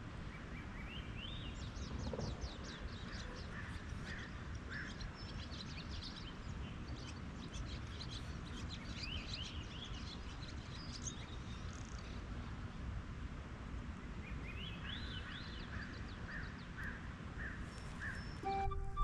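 Wild birds calling over a steady low outdoor rumble: many short high chirps and twitters, and near the end a run of evenly spaced repeated calls. Music starts just before the end.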